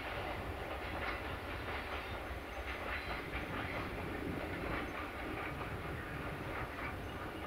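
Freight train wagons rolling on the rails, their wheels clattering irregularly over rail joints above a steady low rumble.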